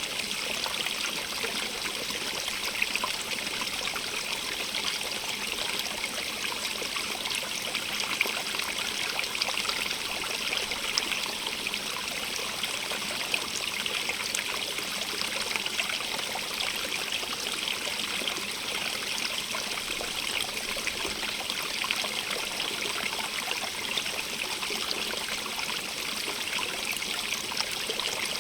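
A stream running over rocks: a steady rush of water with many small splashes and trickles, brightest in the upper register.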